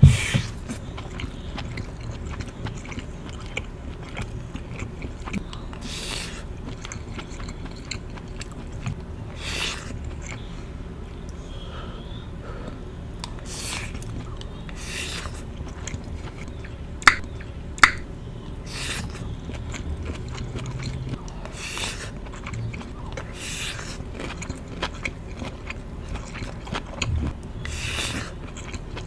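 Close-up mouth sounds of a person chewing and biting into mango jalapeno meatballs, with wet chews coming every second or two. Two sharp clicks a little over halfway through, less than a second apart, are the loudest sounds.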